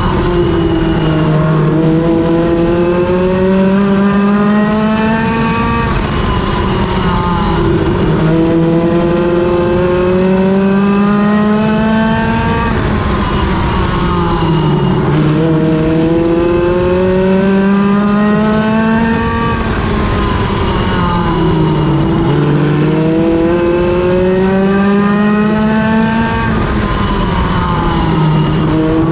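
Midget race car engine lapping a short oval, its pitch climbing as it accelerates down each straight and dropping sharply as the driver lifts for the turns, repeating every three to four seconds.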